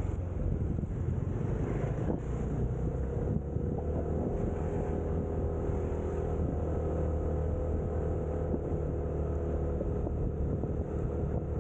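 Motorcycle ridden along a road: a steady engine drone with wind rushing over the microphone.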